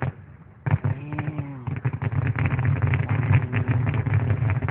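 Fireworks finale: after a short lull, a rapid, continuous barrage of bangs and crackles starts about a second in and keeps going, recorded on a low-quality phone microphone.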